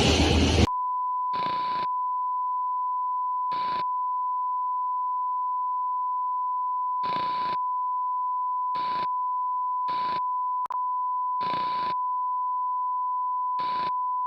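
A steady electronic beep tone of one pitch, around 1 kHz, starts abruptly under a second in, cutting off a loud noisy sound, and holds on with one brief dropout about ten and a half seconds in.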